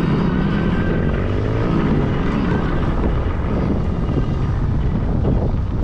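Several kids' dirt bikes revving hard as they pull away from a race start, their engine pitch rising over the first couple of seconds and then blending into a busy mix of engines.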